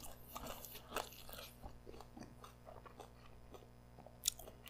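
Faint chewing and mouth sounds from eating grilled Korean chicken skewers (dakkochi), with scattered soft clicks and one sharper click near the end.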